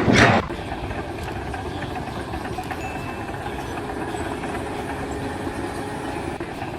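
A brief loud whoosh at the start, then a steady engine or machinery rumble.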